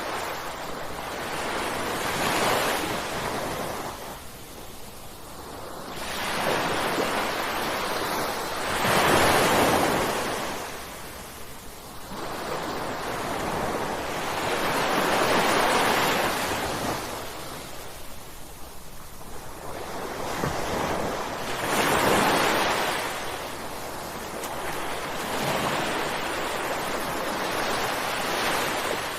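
Ocean surf: waves breaking one after another, the rushing hiss swelling and falling back every few seconds.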